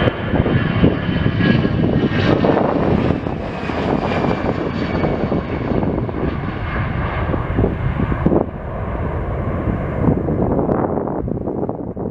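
Jet airliner's engines running loud as it passes, the high-pitched part slowly sinking and fading away near the end, with wind gusting on the microphone.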